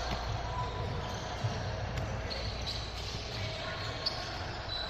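Basketball bouncing on a gym floor during play, a few sharp thuds, over a steady murmur of spectators' voices in a large hall.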